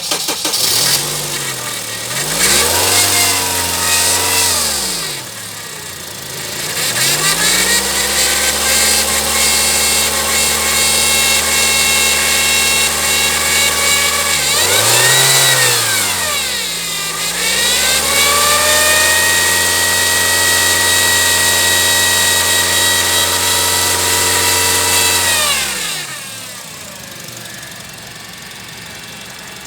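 Honda CR-V engine revved repeatedly: quick blips early on, then held at raised revs for several seconds at a time, with a high whine rising and falling along with the engine speed. About 26 seconds in the revs drop away, leaving a quieter steady noise.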